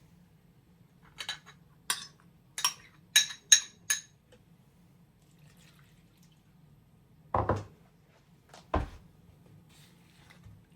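Kitchen dishes clinking: about six sharp, ringing clinks in quick succession, then two duller knocks a few seconds later.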